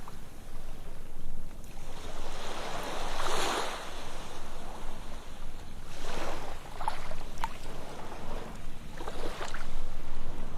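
Ocean surf washing onto a sandy beach, swelling and easing about three times, with small splashes as the water breaks.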